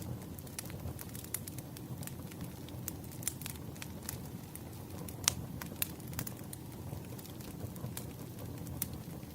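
Wood fire crackling: a low steady rumble of burning with irregular sharp pops and snaps, the loudest about five seconds in.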